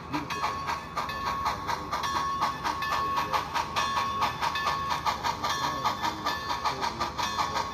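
HO scale model train running, with a fast, even clicking of about five a second over a steady high hum.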